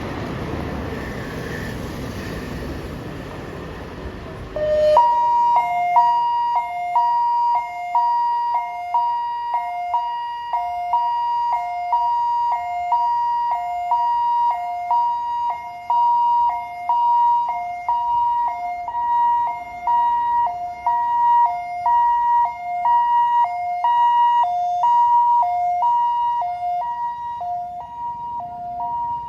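Ambulance's electronic two-tone hi-lo siren, which starts about five seconds in and alternates steadily between a higher and a lower note about twice a second. Before it starts there is a steady rushing noise.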